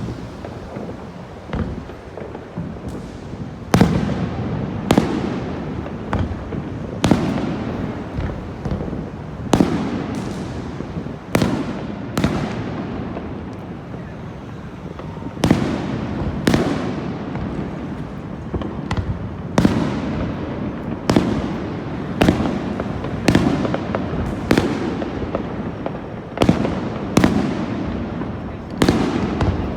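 Fireworks display: aerial shells bursting overhead in a rapid, irregular string of sharp bangs, about one every one to two seconds. Each bang trails off over a steady rumble.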